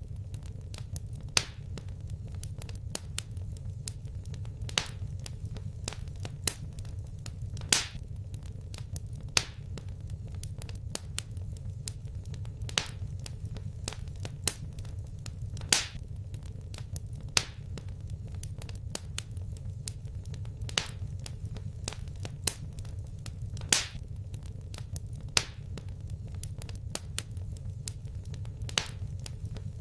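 Wood fire crackling: a steady low rumble of the flames, with sharp pops and snaps of burning wood every second or two.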